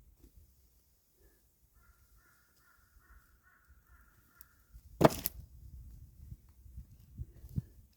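A crow cawing faintly, several times in a row. About five seconds in comes a single loud, sharp knock of an axe striking firewood, and two lighter knocks near the end.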